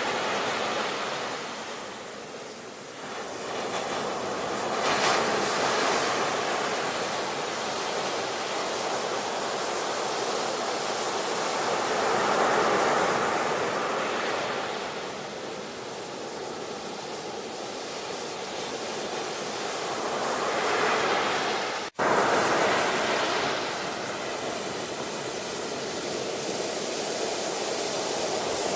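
Ocean surf: waves breaking and washing in, the rushing noise swelling and ebbing every several seconds. The sound cuts out for an instant about two-thirds of the way in, then resumes.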